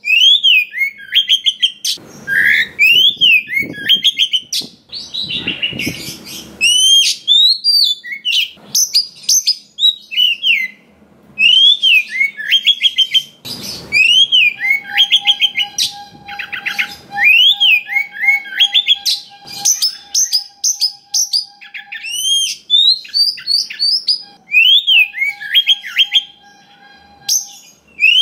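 Oriental magpie-robin (kacer) singing a long, fast, varied song of chirps and rising-and-falling whistles, the notes following one another almost without pause. A faint steady tone sounds under the song through the middle and again near the end.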